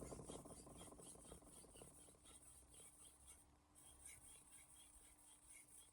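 Faint, regular scraping strokes of a kitchen knife on a whetstone, a few light strokes a second, barely above near silence.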